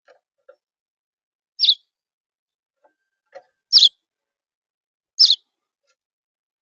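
Small songbird chirping: three short, sharp chirps, each slurring downward, about a second and a half apart, with a few faint soft sounds between.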